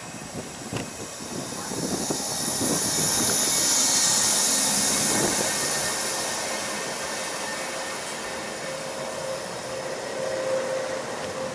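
A train passing at speed. The rush of noise and high hiss swells to a peak about four seconds in, then slowly fades.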